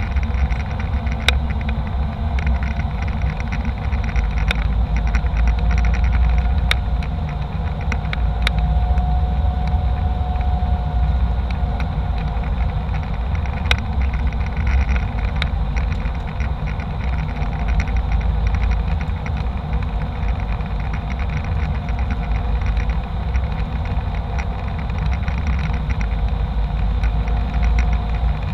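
Steady jet-airliner cabin noise from an Embraer E190: a constant low engine and airflow rumble with a faint whine, and a few sharp clicks or rattles in the first half.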